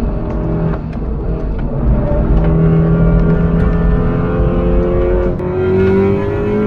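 Turbocharged four-cylinder engine of a tuned Audi S3 accelerating hard under load, its pitch climbing slowly. It drops back once about five seconds in at a gear change, then climbs again, with scattered sharp clicks over the engine.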